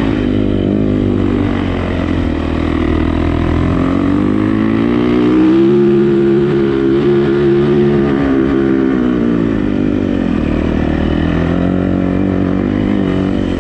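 Dirt bike engine running, its revs climbing to a high, held pitch about halfway through, dropping off, then rising again briefly near the end.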